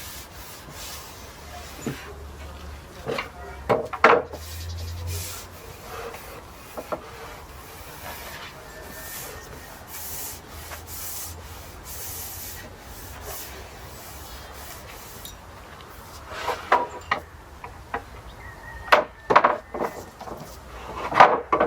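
Brush strokes spreading oil over European larch planks: a run of short bristle-on-wood rubbing strokes. There are a few sharper taps about four seconds in, and a cluster of them in the last few seconds.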